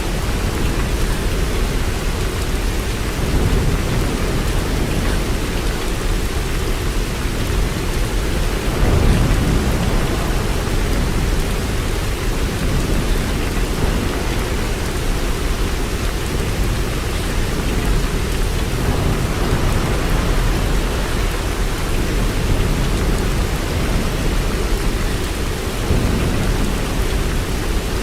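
Steady, heavy rain with a deep low rumble underneath that swells a little about nine seconds in.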